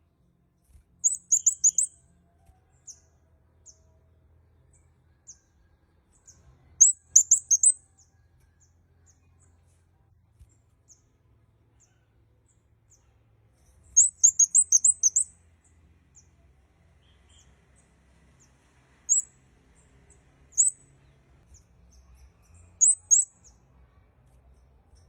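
Kemade kepala merah calling: quick bursts of very high, thin chirps in rapid runs, repeated every several seconds, with single and paired high notes between them.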